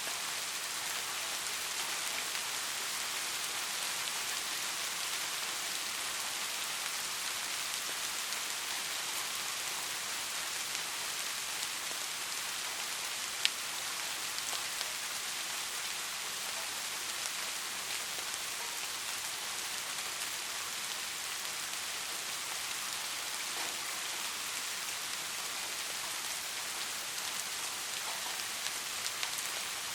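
Steady, soft rainfall: a constant hiss of rain with scattered individual drop pats, and one sharper louder drop tick about halfway through.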